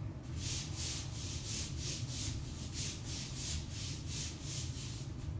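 Tops of bare feet rubbing back and forth on a yoga mat: a quick, even brushing of about four strokes a second.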